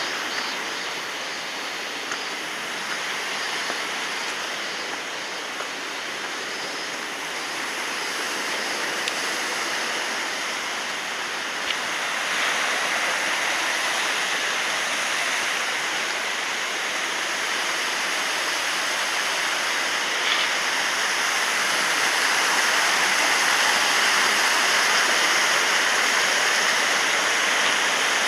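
Waterfall rushing steadily, growing somewhat louder in the second half.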